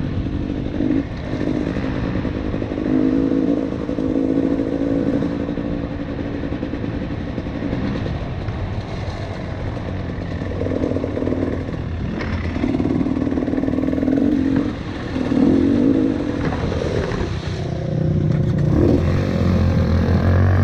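KTM 300 TPI two-stroke dirt bike engine running under a riding throttle, its note coming and going as the throttle is opened and closed. In the last few seconds a steadier, deeper engine drone comes in.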